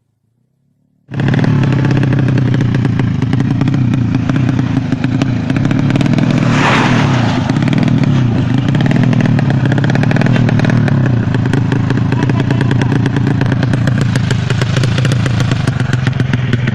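Drag-racing motorcycle engine running loudly at a fairly steady speed, cutting in abruptly after about a second of silence. A short hissing burst comes through about six seconds in.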